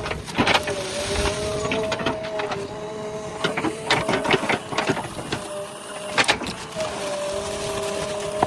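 JCB 3DX backhoe loader at work: the machine runs with a steady two-tone drone, which drops away briefly past the middle, under frequent irregular knocks and cracks.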